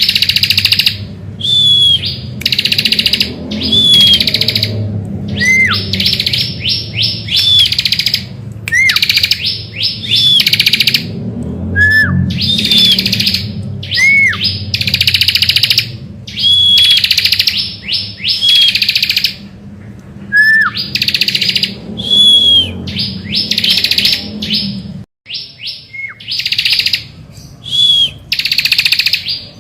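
Bar-winged prinia (ciblek) singing loudly in repeated buzzy, trilling phrases about a second long, each set off by a short, clear down-slurred whistle. A low rumble under the song stops abruptly near the end.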